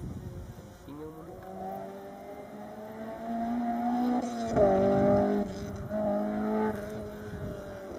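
Rally car engine under hard acceleration, its pitch climbing steadily and loudest in the middle. Near the end it breaks off twice and picks up again at lower pitch as it shifts up through the gears.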